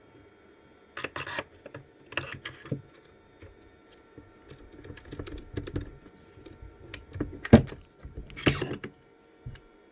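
Airsoft sniper rifle parts being handled and fitted together: irregular clicks, scrapes and knocks of barrel and receiver parts, with one sharp knock near the end.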